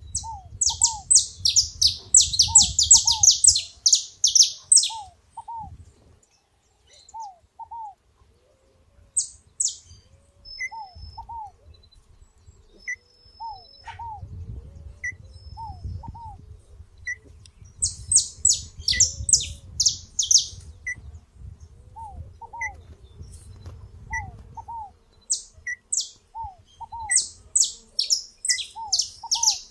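Several birds singing. One songbird gives loud bouts of rapid high chirps, at the start, about halfway through and again near the end. Under it, another bird repeats a lower paired call every second or two, and a soft high pip recurs at a steady pace.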